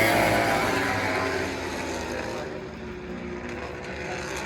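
MotoGP racing motorcycle going past at speed. Its engine note falls in pitch and fades over the first two seconds, and a fainter engine note follows.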